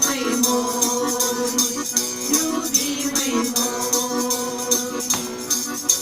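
Instrumental passage of a Russian-style folk song: a garmon (button accordion) plays sustained chords and the melody over a steady, evenly spaced jingling percussion beat.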